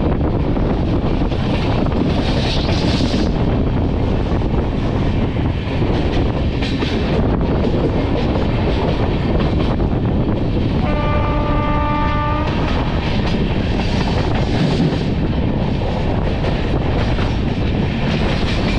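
Passenger train running, heard from inside the coach: a steady rumble of wheels on the track. About eleven seconds in, a train horn sounds once for about a second and a half.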